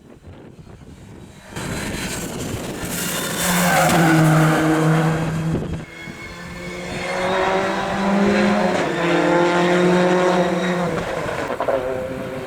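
A rally car's engine at high revs as the car comes along the stage, arriving suddenly about a second and a half in. The engine note holds high, drops briefly about six seconds in with a lift or gear change, then climbs again.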